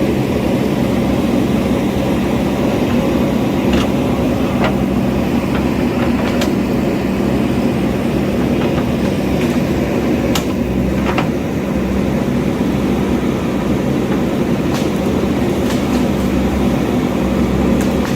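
JCB backhoe loader's diesel engine running steadily, with a handful of short sharp knocks scattered through it.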